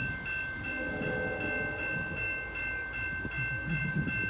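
West Coast Express commuter train rumbling on the rails, with a high electronic ringing that pulses about three times a second throughout.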